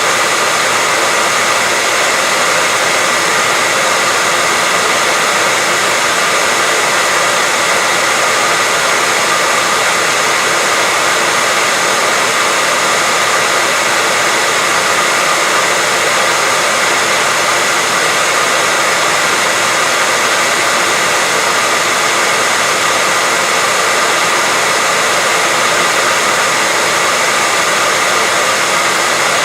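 Steady, unchanging white noise: a loud, even hiss with a faint steady tone running through it.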